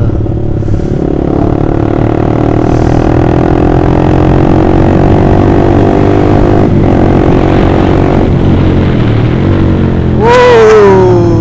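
Honda CBR150R's single-cylinder four-stroke engine running through an Austin Racing aftermarket racing exhaust while riding, its note climbing gently as it gathers speed. About ten seconds in, a sharp, loud rev jumps up and falls away.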